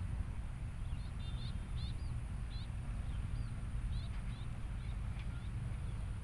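Lakeside outdoor ambience: a small bird gives a run of short, high chirps about one to two a second for a few seconds, over a steady low rumble and a faint, even high hiss.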